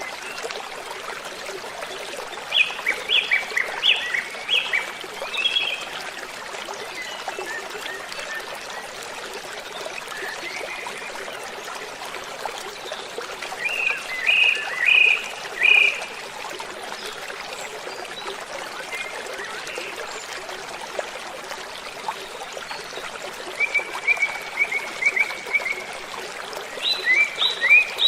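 Steady rush of falling water from a waterfall, with birdsong over it: short bursts of quick, high chirping notes four times, each lasting two to three seconds.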